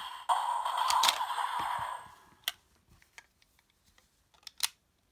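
A Force Riser toy belt's electronic sound effect plays through its small speaker for about two seconds and fades out. Then come a few sharp plastic clicks as the toy is handled.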